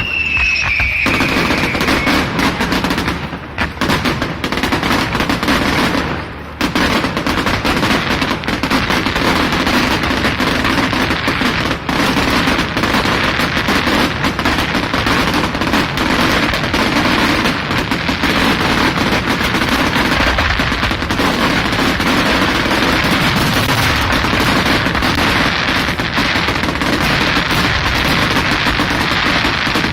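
Fireworks display going off in dense, rapid volleys of bangs and crackles, almost continuous like machine-gun fire. A whistling firework's falling whistle opens it.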